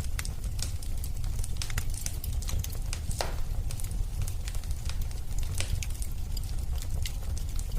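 Fireplace fire crackling: a steady low rumble of flames with frequent small pops and crackles, and one louder pop about three seconds in.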